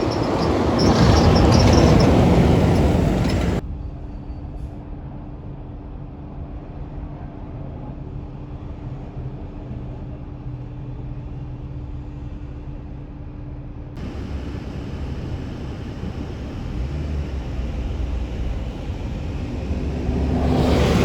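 Garbage trucks in street traffic: a loud truck pass-by for the first few seconds, then, after an abrupt cut, a steadier engine running with a low steady drone. After a second cut, another vehicle grows louder and passes near the end.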